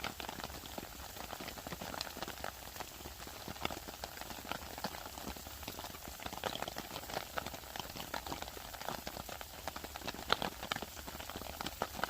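Burgers sizzling in a pan over a wood-burning camp stove: a steady hiss with dense, irregular crackles, mixed with rain pattering.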